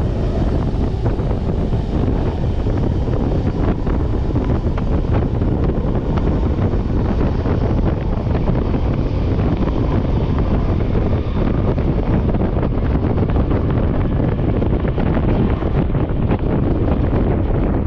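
Steady low rumble of a moving RER commuter train, mixed with wind noise buffeting the microphone.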